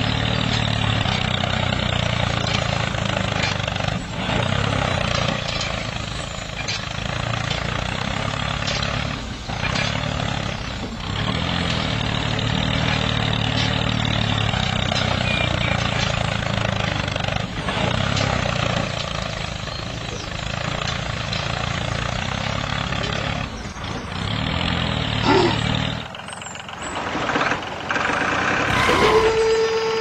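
Tractor engine running steadily. Near the end the sound drops away briefly, and a single steady tone begins just before the end.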